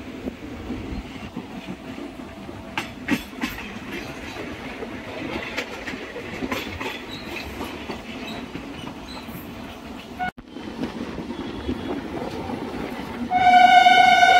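Passenger train running on the rails with a steady rumble and scattered clacks of the wheels over rail joints and points. About a second before the end a train horn sounds one long steady blast, the loudest sound here.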